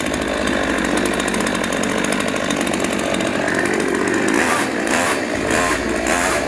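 Chainsaw running hard as it cuts into an iPhone, its note surging a few times near the end.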